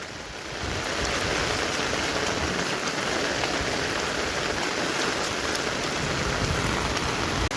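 Heavy rain falling steadily, a dense even hiss of rain on surfaces that grows louder about a second in.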